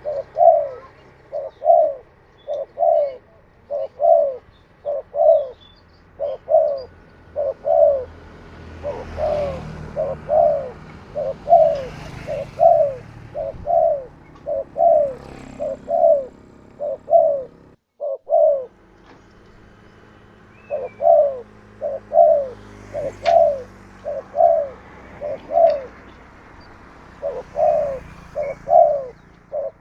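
Spotted dove (tekukur) cooing, a long run of repeated low coos at a little under two a second, with a brief break about 18 seconds in.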